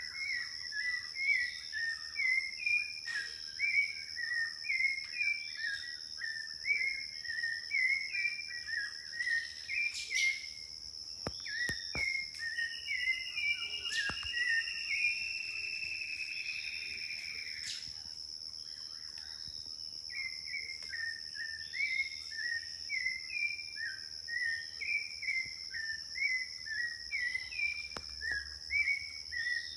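A sabiá thrush singing: a long run of quick repeated chirping notes, about two to three a second, that breaks off midway while a longer drawn-out note sounds, then starts again. A steady high insect drone runs underneath, with a few sharp clicks about ten to twelve seconds in.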